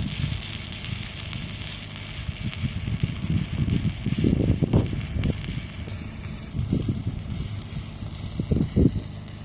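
Electric arc welding crackling and hissing, stopping about two-thirds of the way through, over irregular low rumbling gusts.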